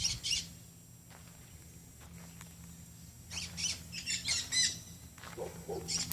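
Birds calling: groups of short, high chirps, with a couple of lower squawks near the end.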